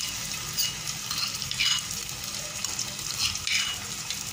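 Ginger-garlic paste frying in hot oil in a pot: a steady sizzle with occasional crackles.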